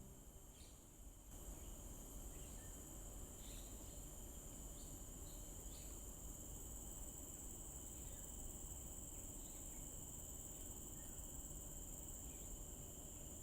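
Insects trilling steadily at a high pitch, with a few short chirps in the first six seconds and a faint low rumble underneath.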